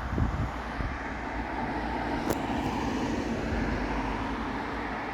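Road vehicle engine and tyre noise: a steady rumble of passing traffic, with one sharp click a little over two seconds in.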